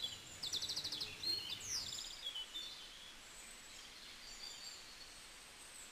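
Birds singing faintly in the background: a rapid high trill and a few quick falling chirps in the first two seconds, then thinner, fainter high calls over a low steady room hiss.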